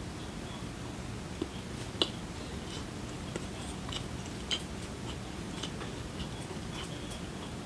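A person chewing a mouthful of dumpling close to the microphone: soft mouth clicks and small crunches here and there, the sharpest about two seconds in and again around four and a half seconds, over a steady low room hum.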